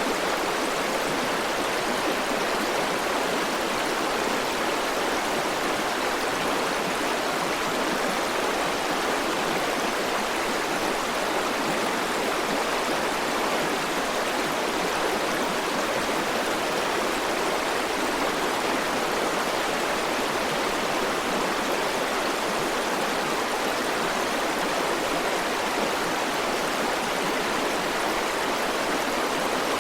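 River water rushing steadily, an even flow noise with no changes.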